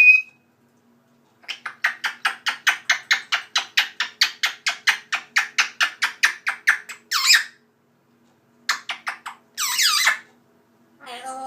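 Pet bird Luna vocalizing. A short high chirp is followed by a fast run of chattering clicks, about five a second for several seconds. Then come two screeches that fall sharply in pitch, and a steady whistle starts near the end.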